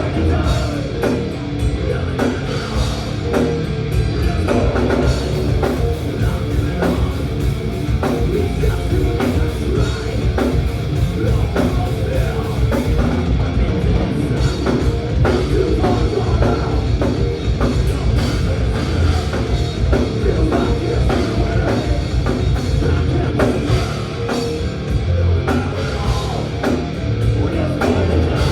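Thrash metal band playing live and loud: drum kit and electric guitars in a steady, dense rhythm.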